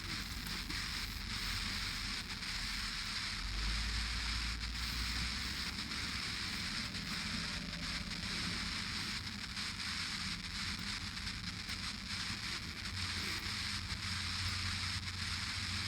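Steady engine and airflow noise inside a police aircraft, heard over the crew's headset intercom: an even hiss over a low rumble that swells briefly a few seconds in and again near the end.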